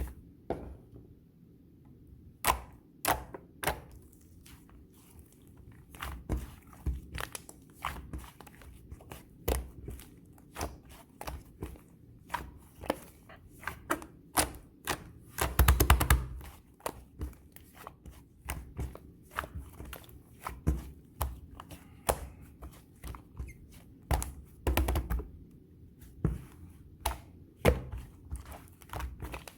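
Light-purple slime being handled, giving many sharp, irregular clicks and pops. There is a longer crackling stretch about halfway through and a shorter one near the end.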